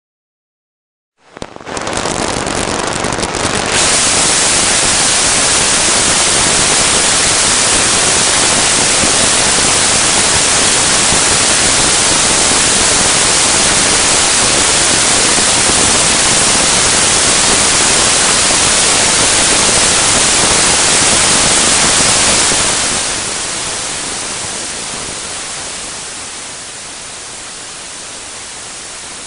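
Bearing noise picked up by a Holroyd ultrasonic condition-monitoring instrument and made audible as a steady hiss. It starts suddenly about a second in, stays loud and even, then drops to a quieter hiss after about 23 seconds.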